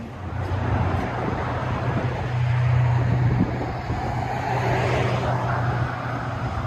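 Dodge Challenger V6 running at low speed through Flowmaster Super 44 mufflers and straight pipes, a steady low exhaust drone as the car is backed out.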